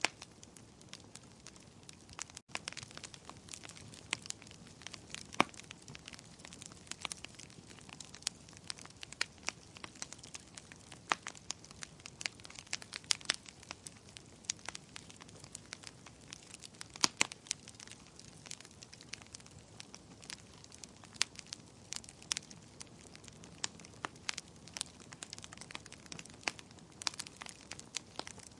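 Wood bonfire crackling: irregular sharp pops and snaps, several a second and of varying strength, over a low steady hiss of burning.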